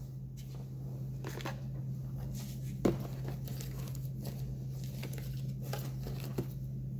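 Faint rustling and scraping from hands handling small fly-tying materials, with one sharp click about three seconds in, over a steady low hum.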